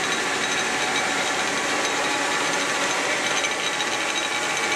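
Leblond heavy-duty toolroom lathe running steadily with its spindle at 825 RPM, an even machine whir with a thin high whine over it.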